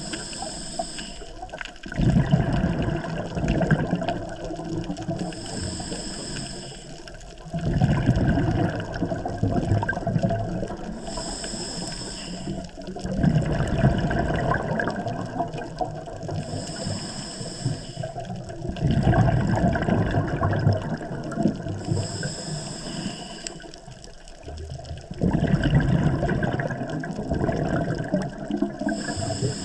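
Scuba diver breathing through a regulator underwater: a short high hiss as air is drawn through the demand valve, then a loud rush of exhaled bubbles. The cycle repeats about every five to six seconds, five breaths in all.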